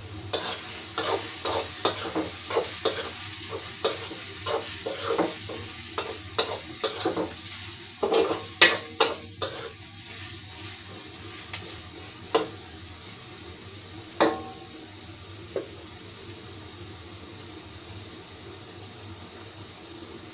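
A spatula stirring food in a frying pan, knocking against the pan about twice a second for roughly ten seconds, then three single knocks spaced out after that.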